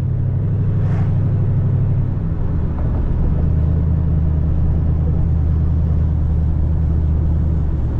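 2010 Camaro SS's straight-piped 6.2-litre V8 running steadily while driving, heard from inside the cabin; its pitch drops a little about two seconds in and then holds.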